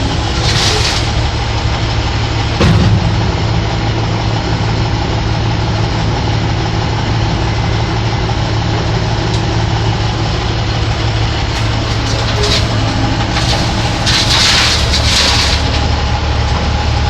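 Dump truck's diesel engine running steadily at low revs, with a short knock about three seconds in. Near the end there are bursts of hissing, and the engine's tone drops lower.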